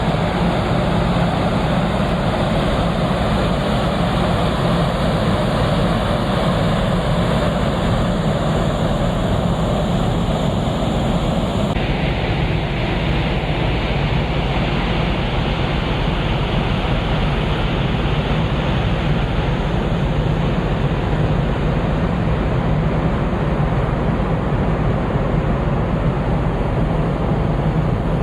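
Steady rushing noise of a large car ferry under way, wind and sea water over the low hum of the ship's engines. The hiss shifts slightly about twelve seconds in.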